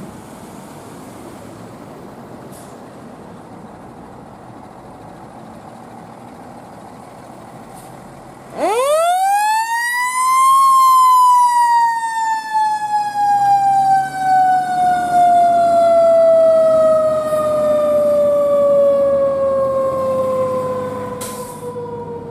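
Siren of a 2012 Seagrave Marauder II fire engine: after a stretch of low truck engine noise, it winds up sharply in pitch over about two seconds, then slowly falls in pitch through the remaining ten seconds or so.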